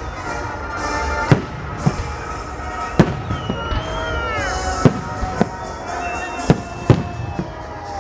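Aerial firework shells bursting overhead in about eight sharp, irregularly spaced bangs, with music playing throughout.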